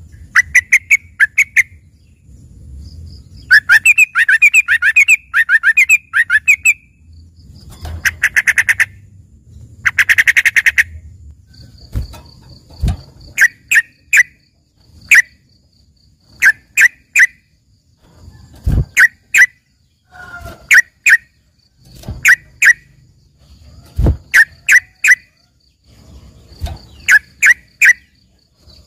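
Yellow-vented bulbul (trucukan) singing an 'isian' song filled with learned phrases, likened to a greater green leafbird in full song. Fast trilled runs come in the first half, then short bursts of two or three sharp chirps every second or two.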